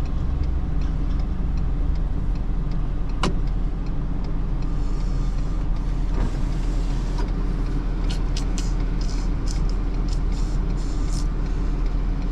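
Vehicle engine idling steadily, a continuous low rumble, with one sharp click about three seconds in and a few faint ticks later on.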